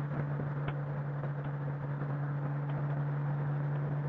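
Touring motorcycle cruising at a steady highway speed: an even engine hum under wind and road noise.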